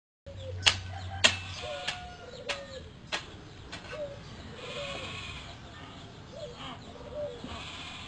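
A small animal sneezing repeatedly: six short, sharp sneezes about every half second over the first four seconds, with faint short calls between them and a few weaker sneezes later.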